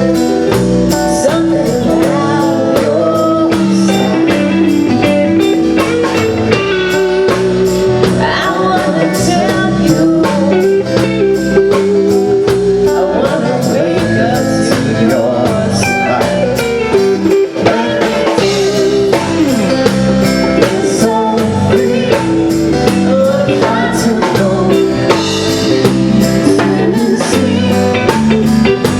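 A band playing blues-style music: guitar with bent, wavering notes over a steady drum-kit beat.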